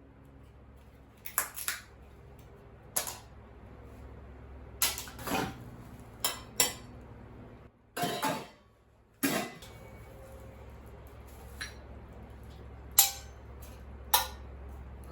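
Dishware and metal items clinking and knocking as they are handled and set down, about ten separate knocks spread irregularly, some ringing briefly.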